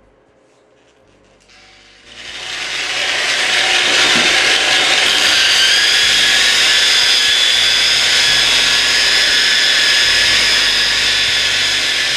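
Bosch variable-speed grinder spinning a dry diamond polishing pad against a marble countertop. It starts about two seconds in and then runs steadily as a loud grinding hiss with a steady high whine.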